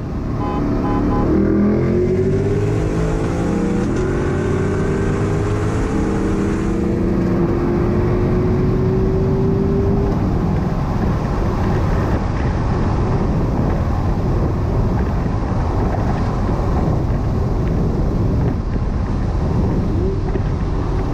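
C8 Corvette's V8 engine at full throttle in a roll race, its note rising steadily for about ten seconds. After that the engine note fades into steady loud wind and road noise at speed.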